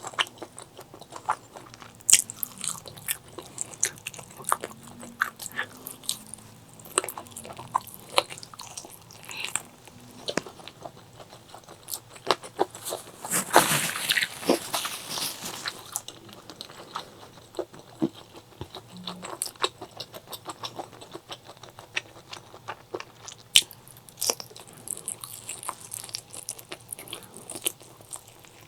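Close-miked eating sounds: chewing and biting with many short wet clicks and smacks of the mouth, and a louder, denser stretch of about two seconds midway.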